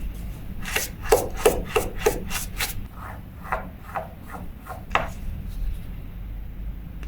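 Quick rhythmic rubbing strokes on a part of a Daiwa 1000X spinning reel during cleaning: a fast run of about seven strokes, then a slower run of about six, stopping near the end.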